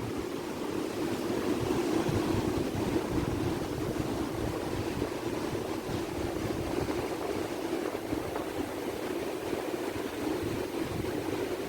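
Strong wind rushing steadily and buffeting the microphone, with a flickering low rumble.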